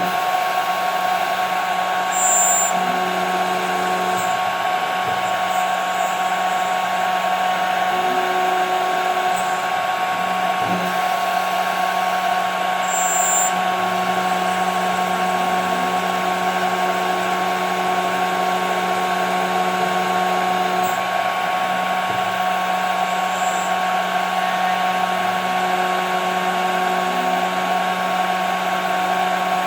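CNC router spindle running steadily with a constant whine and hum while cutting 5 mm plexiglass, with a few short high-pitched squeaks about two seconds in and again near the middle.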